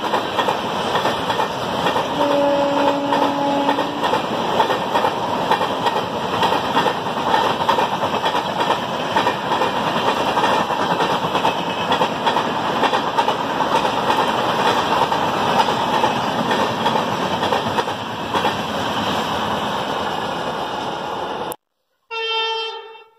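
Passenger express train hauled by an electric locomotive passing at speed: steady, loud running noise of the coaches' wheels on the rails, with a short horn blast about two seconds in. The sound cuts off abruptly near the end, followed by a brief horn-like tone.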